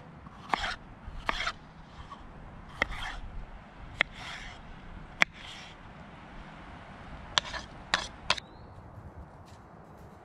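Kitchen knife chopping bell pepper on a cutting board: irregular sharp knocks of the blade on the board, mixed with short scraping sounds.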